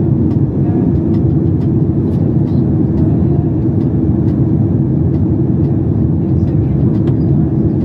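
Steady engine and airflow rumble heard inside the cabin of a Boeing 737 MAX 8, with a few faint clicks.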